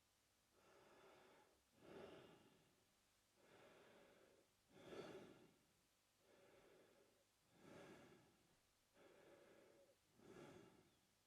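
A man breathing quietly through his mouth in a slow, even rhythm. Each breath pairs a softer, longer airy draw with a louder, shorter rush of air, repeating about every three seconds, four times over.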